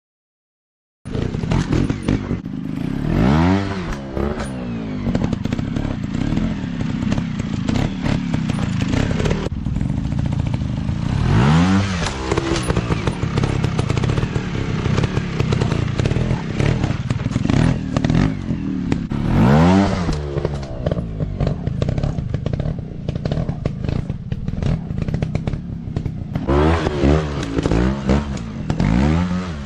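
Dirt bike engines running, the revs swinging up and back down several times, with clattering and knocks over the engine note. It starts suddenly about a second in.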